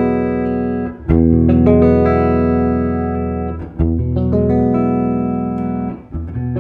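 Steinberger headless electric guitar playing chords, each strummed and left to ring. New chords come in about a second in, near the middle, and just before the end.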